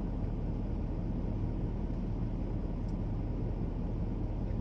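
Steady low rumble inside the cab of a GMC 2500 Denali pickup truck with its engine running.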